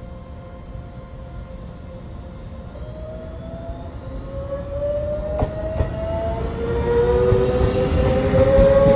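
Taiwan Railway train approaching and growing steadily louder, with a whine of several tones that rises slowly in pitch. A couple of sharp clacks from the wheels come about five and a half seconds in.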